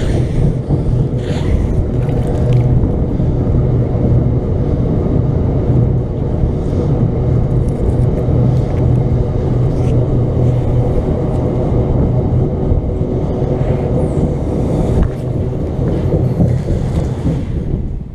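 Loud, steady rumble of road traffic with a low hum running through it.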